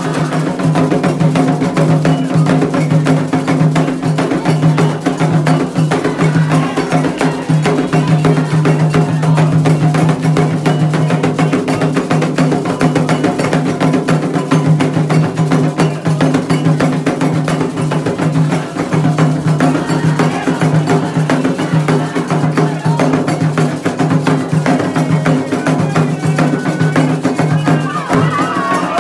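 Afro-Brazilian Candomblé ritual drumming for Xangô: atabaque hand drums led by the large rum drum, with a struck bell, playing a fast, unbroken rhythm.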